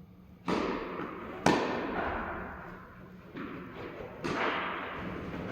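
Tennis ball being played in a doubles rally: four sharp pops of racket on ball and ball on court about a second apart, each trailing off in a ringing echo, the second the loudest.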